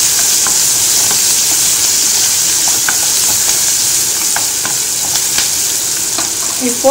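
Chopped onion, curry leaves and ground spices sizzling in oil in a non-stick kadai, stirred with a wooden spatula. The frying makes a steady hiss, and the spatula knocks and scrapes against the pan with short clicks every so often.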